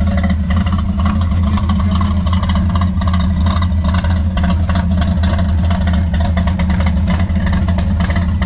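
A 900-horsepower engine in a 1955 Chevy pickup idling loudly with a steady deep rumble, through headers tied into a four-pipe exhaust.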